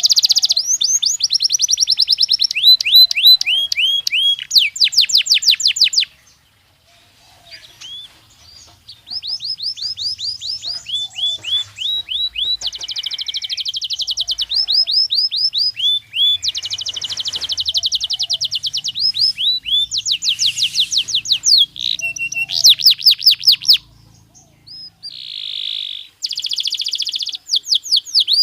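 Belgian canary singing: long rapid trills of repeated sweeping notes, changing speed from phrase to phrase, with a pause of a few seconds about six seconds in and another brief one near the end.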